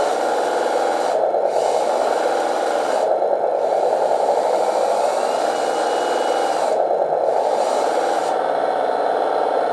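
Simulated truck engine from an RC truck's customized sound module, played through its small speaker and running in neutral with a steady rough rumble that swells and eases a few times.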